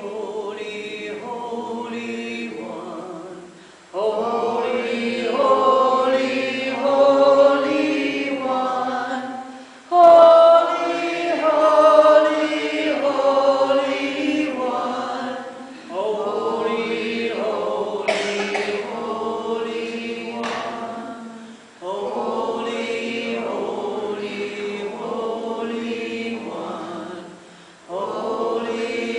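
A group of voices chanting together, singing the same short phrase over and over; a new repetition starts about every six seconds after a brief pause for breath.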